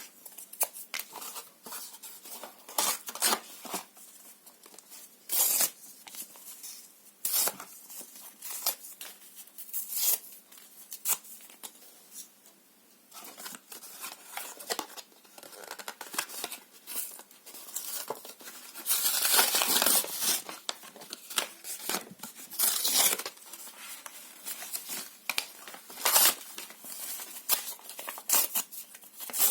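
Paper being torn by hand in many short, irregular rips with some crinkling, and one longer, louder tear about two-thirds of the way through.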